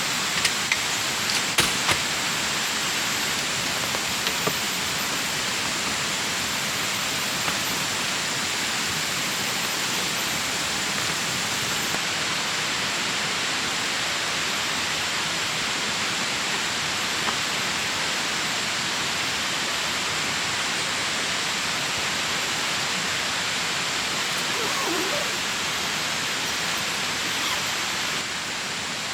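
River water rushing steadily, with a few small knocks in the first two seconds.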